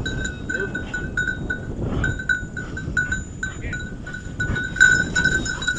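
A small bell on a bird dog's collar ringing in quick, slightly uneven strokes, about three a second, as the dog moves, over a steady low rumble of noise.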